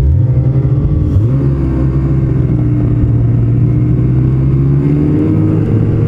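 Ski-Doo Renegade X-RS 850 snowmobile's two-stroke engine running on the trail. Its pitch dips and climbs back twice in the first second and a half as the throttle is eased and reopened, then holds steady.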